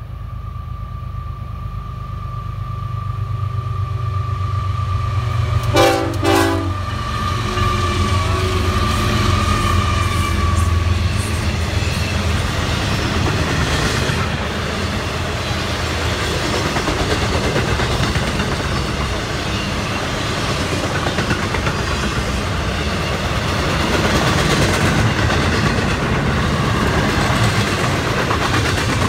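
A freight train passes, led by GE ES44C4 diesel locomotives. A deep engine rumble dominates the first dozen seconds, with a short horn blast about six seconds in. After that come the steady rumble and clickety-clack of intermodal flatcars and double-stack cars rolling over the rails.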